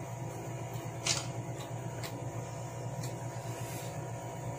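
A man chewing food with his mouth closed: a few faint short clicks over a steady low hum.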